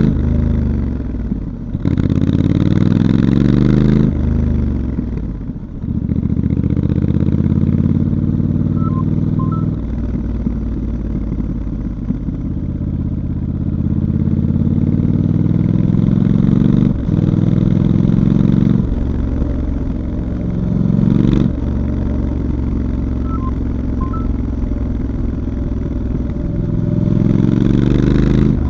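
Stock 2019 Triumph Scrambler 1200 XE's parallel-twin engine heard from the rider's seat, its note climbing and dropping back several times as the bike accelerates through the gears, then running more steadily with a few throttle changes and pulling up again near the end.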